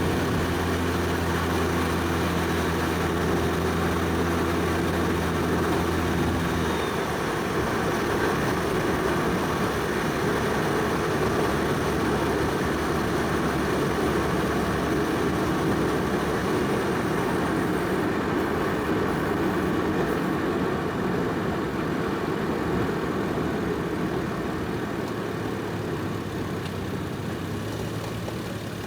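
Toyota Soarer's single-turbo 1JZ straight-six running at a steady cruise, its tone suddenly giving way about seven seconds in to a rough rush of engine and road noise. Near the end a lower, steady engine hum returns.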